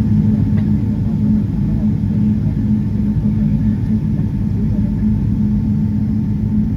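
Steady cabin noise inside a Boeing 777-300 on the ground with its engines running: an even low rumble with a constant hum.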